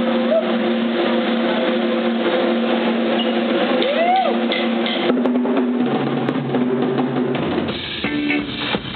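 Live rock band playing, the drum kit to the fore over held chords; the music changes about six seconds in and again about seven and a half seconds in.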